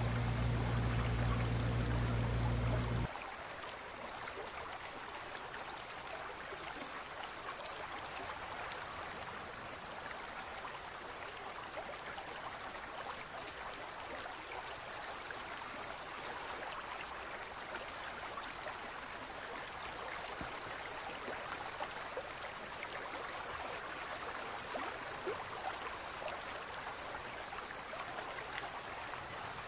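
Steady trickling, bubbling running water with small crackles, like water splashing into an aquarium. For the first three seconds a loud low drone plays over it and then cuts off suddenly.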